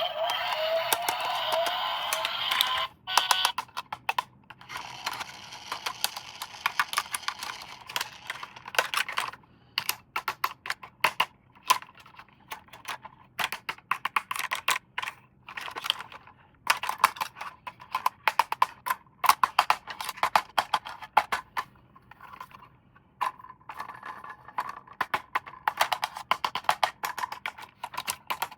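Plastic toy being handled and unboxed: a long run of sharp, irregular plastic clicks and taps. The first three seconds also carry loud warbling, gliding electronic tones.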